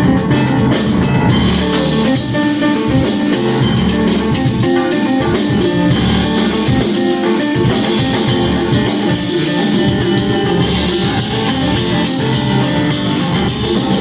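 Rock band playing live: electric guitar over bass and a drum kit with steady cymbals.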